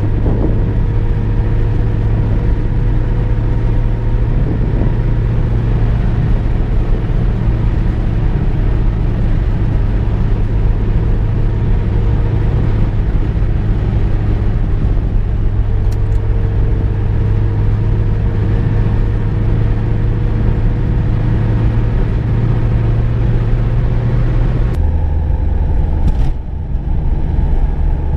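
Car being driven at a steady pace: a constant engine hum with road and tyre noise. Near the end the engine note steps lower and the hiss thins out, with a brief dip in level a little later.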